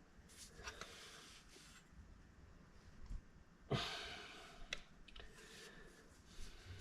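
Quiet hand-tool work on tractor hardware: a few light metallic clicks and one sharp knock a little under four seconds in, followed by a breathy exhale that fades over about a second.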